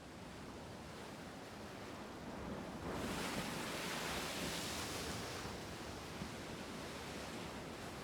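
Sea waves washing ashore: a steady wash of surf, with one wave swelling about three seconds in and easing off a couple of seconds later.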